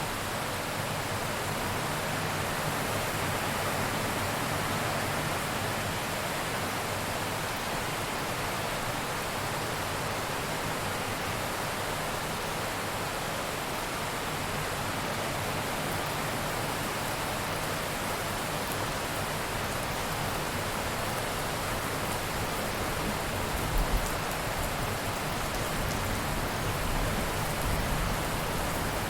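Steady heavy rain falling, an even hiss of rainfall. There are a couple of brief low rumbles near the end.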